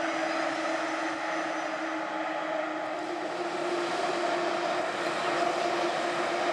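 ICE 1 high-speed train with its class 401 power car rolling slowly along the platform: a steady hum with a low tone and a higher tone, the higher one rising a little and the sound growing slightly louder in the second half.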